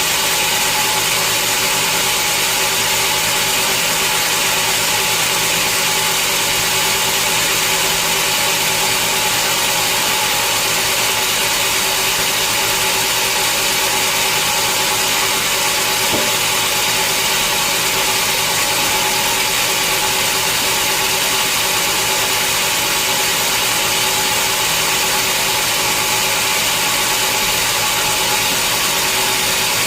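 Sawmill machinery running steadily: a constant, even high hiss over a low steady hum, with no change in level.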